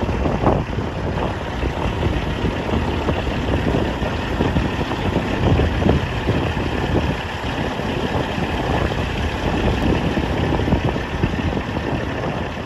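Strong wind of a desert sand-and-dust tornado buffeting the microphone: a loud, steady rumbling noise that flutters irregularly.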